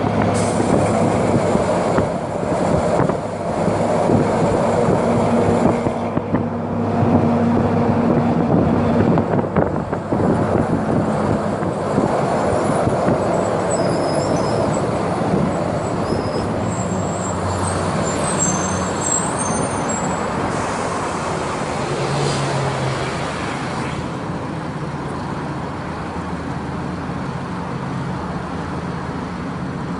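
Agrale MT 17.0 LE city bus's four-cylinder diesel engine running as the bus drives, its pitch shifting up and down with speed and gear. Brief high squeaks come about halfway through. The engine settles lower and quieter near the end.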